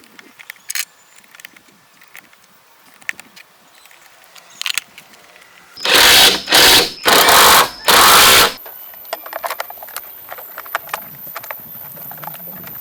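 A power tool run in four short, loud bursts over about two and a half seconds, starting about six seconds in. Scattered light clicks and knocks of tools being handled come before and after it.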